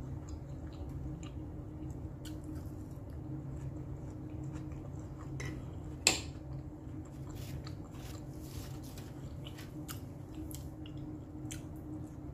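Close-up chewing of a mouthful of pancake, with small wet mouth clicks. About six seconds in, a single sharp clack as the metal fork is set down on the wooden board. A steady low hum runs underneath.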